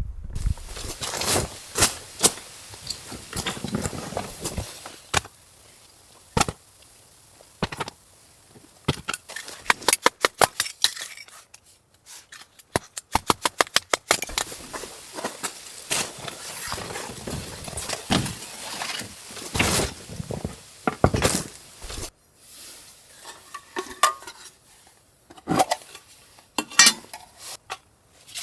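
Clinks, knocks and scrapes of cooking utensils against cookware, with two quick runs of about five strikes a second in the middle.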